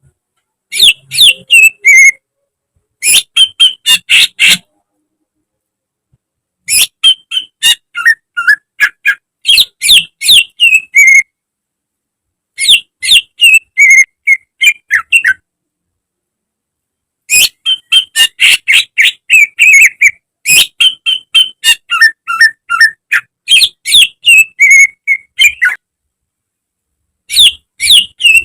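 Greater green leafbird (cucak ijo) singing loud phrases of rapid, sharp whistled and chattering notes, with stretches of dead silence between phrases.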